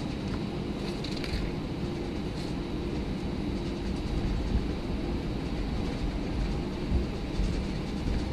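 Airbus A319 cabin noise as the plane rolls on the ground: a steady engine hum, with the landing gear rumbling and thumping irregularly over the pavement.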